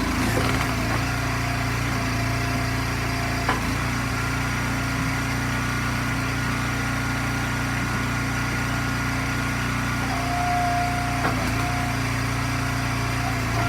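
Small engine of an Eastonmade hydraulic log splitter running steadily, with two brief sharp knocks.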